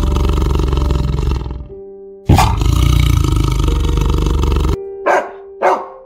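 Tiger roaring: one roar fades out in the first two seconds, and a second starts suddenly about two seconds in and is cut off abruptly near the end. Then come two short barks from a dog, over soft background music.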